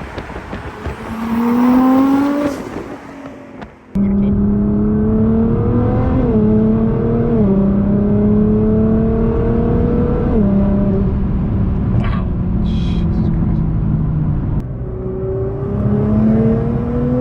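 2017 Nissan GT-R's twin-turbo 3.8-litre V6 accelerating: a loud rising surge about two seconds in that fades away, then, after a sudden change, the engine pulling and climbing in pitch with three drops as the gearbox upshifts, climbing again near the end.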